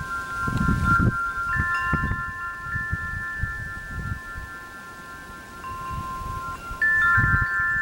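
Chimes ringing: several long, overlapping tones, with fresh strikes about a second and a half in and again near the end.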